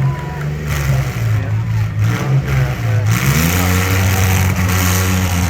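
Demolition derby cars' engines running and revving, the engine note stepping down and then rising about three seconds in.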